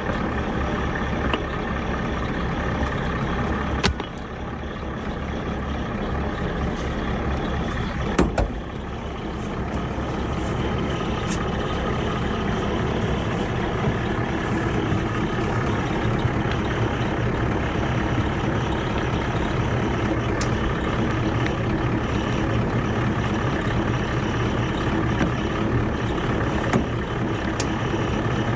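Pickup truck's engine idling steadily, with two short sharp knocks about 4 seconds and 8 seconds in.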